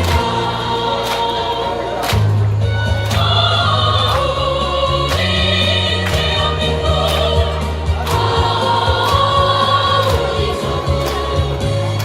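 A choir singing a song over a backing track, with a steady beat about twice a second and a bass line under the voices.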